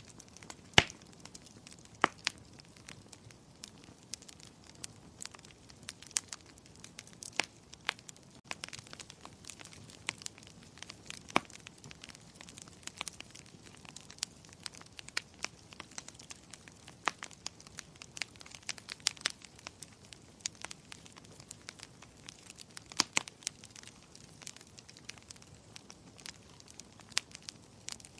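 Wood fire crackling in a fireplace: irregular sharp pops and snaps over a faint steady hiss, with a few louder pops about a second in, two seconds in and near the end.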